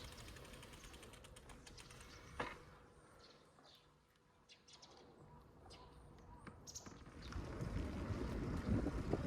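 Wind rumbling on the microphone while riding a bicycle. It dies down for a few seconds in the middle, where there is a single sharp click and a few faint high chirps, then builds up again near the end.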